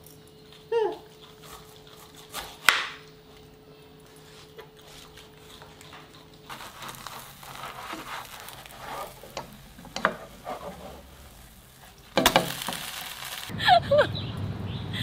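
Egg-and-vegetable batter sizzling softly in a nonstick frying pan, after a single sharp knock about three seconds in. Near the end comes a loud rushing burst lasting over a second, then short high calls.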